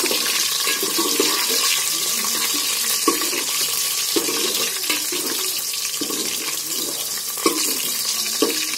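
Sliced onions and a green chilli sizzling in hot oil in an aluminium pot, with a steel ladle stirring and scraping against the pot. A few sharper clicks of the ladle on the metal stand out, the loudest near the end.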